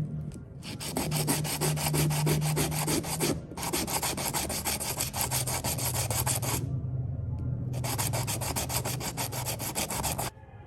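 Scissor blade being worked with an abrasive, a rasping rub in three spells of about three seconds each, with a steady low hum underneath.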